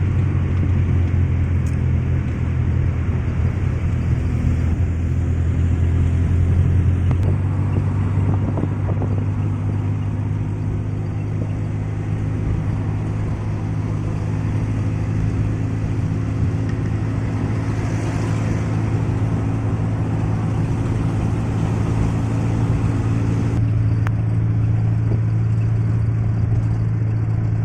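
Old car's engine running at a steady speed while driving around town: a low, even drone.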